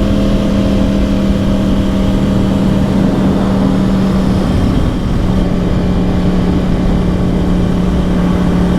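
2010 Yamaha R1's crossplane inline-four through dual Yoshimura exhausts, running at steady revs on the move over wind and road noise. The engine note eases down a little about five seconds in.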